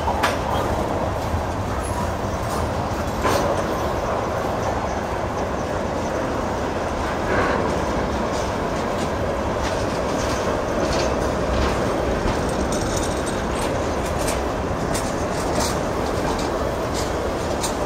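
Freight train of tank cars and steel coil cars rolling past: a steady rumble of wheels on rail, with a few sharp clacks from the wheels.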